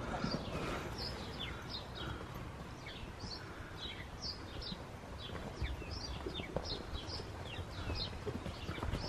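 Small birds chirping over and over, short high calls scattered throughout, over a steady low outdoor rumble with a few soft thuds.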